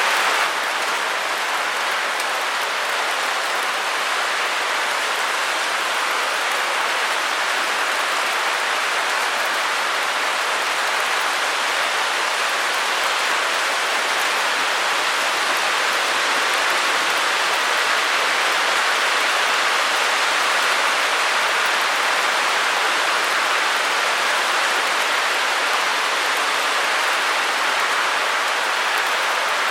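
Steady, unchanging white-noise hiss, an even rush with no breaks or events.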